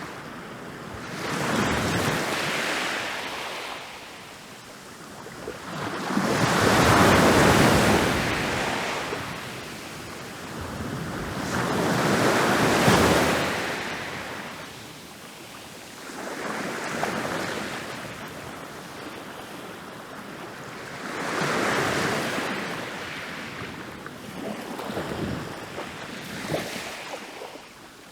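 Ocean waves breaking on a beach. About six waves roll in one after another, each rising to a crash and washing back. The two largest come in the first half.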